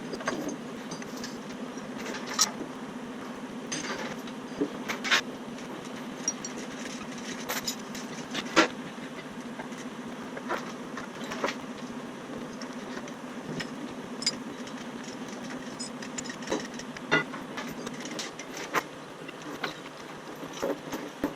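An engine running steadily under irregular sharp clanks and clicks, which sound like metal knocking on metal; the engine hum drops away near the end.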